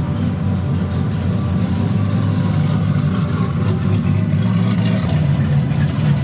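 A car engine running, with loud music playing over it.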